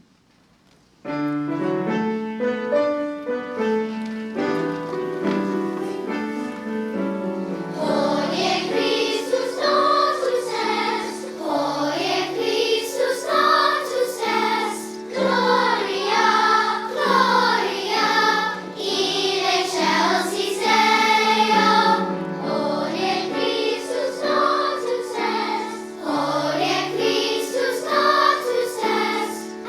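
A children's choir singing a Christmas carol with piano accompaniment; the piano plays an introduction starting about a second in, and the voices enter about eight seconds in.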